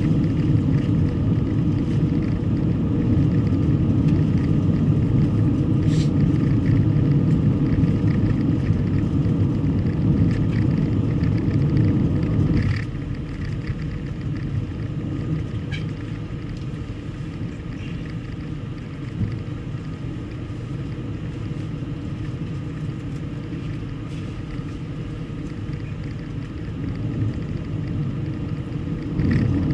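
Steady low rumble of a car driving: engine and road noise, dropping suddenly to a quieter level about 13 seconds in and rising again near the end.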